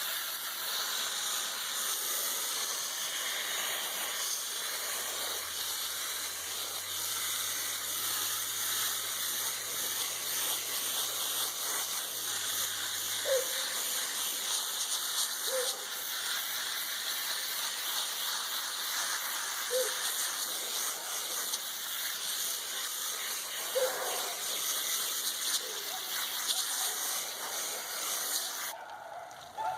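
Water spraying from a hose nozzle onto an air conditioner's coil, rinsing out the foaming coil cleaner and dirt from between the fins. A steady hiss that starts abruptly and cuts off near the end.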